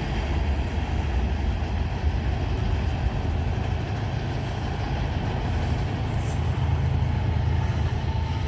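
Norfolk Southern freight train cars rolling past on the rails, a steady low rumble of wheels on track.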